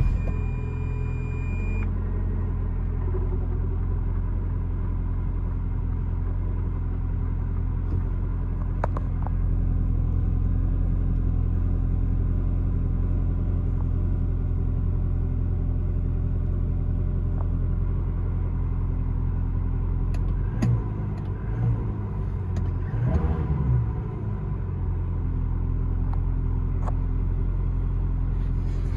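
Ferrari 360 Spider's 3.6-litre V8 idling steadily, its pitch wavering briefly about two-thirds of the way through before settling again.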